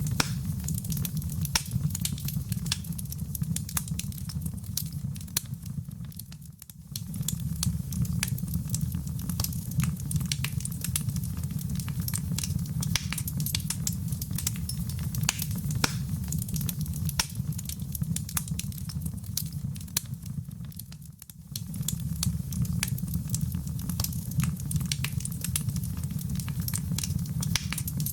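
Fire burning in a fireplace: a steady low rumble with constant sharp crackles and pops. The sound dips briefly twice, about fifteen seconds apart, where the loop is joined.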